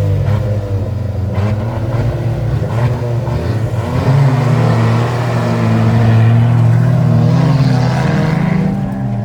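Several rally cars racing, their engines revving up and down over one another, with one engine holding a loud, steady note from about four seconds in.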